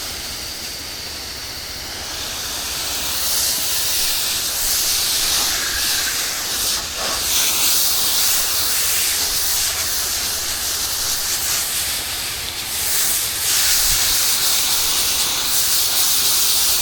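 Steady hiss of spray from a pressure-washing wand applying cleaning solution to a surface, growing louder about two seconds in, with a faint low hum of the machine beneath.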